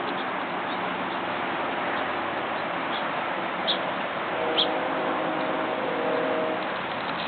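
Backyard birds giving a couple of short chirps, a little past the middle, over a steady hiss of background noise. A low steady hum comes in for about two seconds in the second half.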